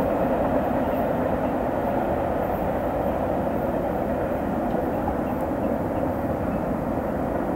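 Freight train autorack cars rolling on the rails: a steady wheel-on-rail noise that slowly fades as the cars move away.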